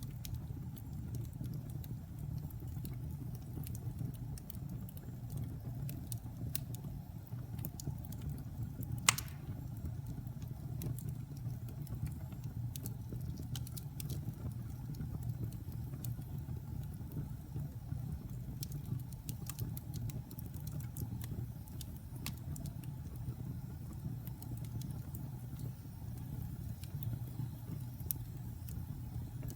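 Wood fire crackling in a fireplace: scattered small crackles over a low steady rumble, with one loud pop about nine seconds in.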